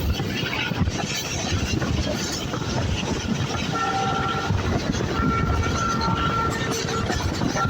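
Passenger train running with a steady rumble. About halfway in, the locomotive's horn sounds a short blast, then a longer one, as a chord of steady tones.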